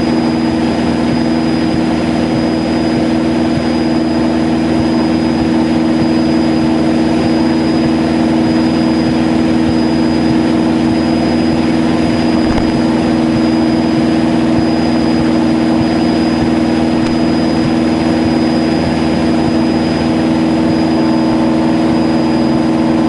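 Cessna 152's Lycoming O-235 four-cylinder piston engine and propeller droning steadily at constant power in the cabin. A thin, steady high tone sits over the drone.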